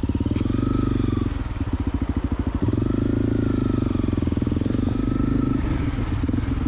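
Honda CRF250L's single-cylinder four-stroke engine running at low revs with a steady firing pulse, easing off to a slower chug about a second in and picking up with throttle again near three seconds in.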